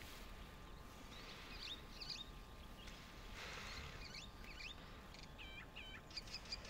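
Faint wild bird calls: short high chirps and whistles here and there, with a quick run of repeated calls near the end, over a low steady background rumble. A brief rush of noise comes about halfway through.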